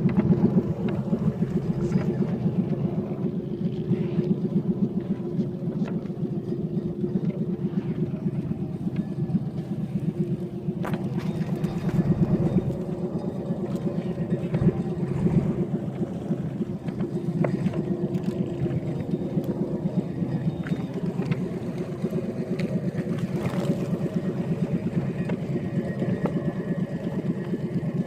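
A small fishing boat's engine running steadily under way, with an even low pulsing throb.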